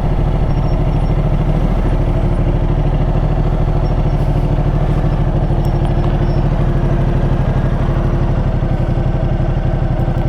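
Ducati Multistrada motorcycle engine running steadily at an even, unchanging pitch.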